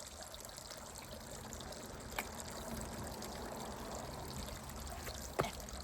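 Steady rushing noise, like trickling or running water, with two short clicks or taps, one about two seconds in and one near the end.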